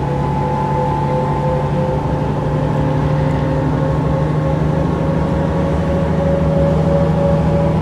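Mercedes-Benz O405 N² city bus under way, heard from on board: its Euro II diesel engine and Voith automatic transmission running steadily, the engine note slowly rising in pitch as the bus gains speed.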